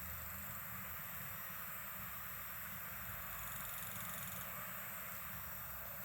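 Steady hiss of a wood campfire burning, with few distinct crackles. A high insect trill comes in for about a second near the middle.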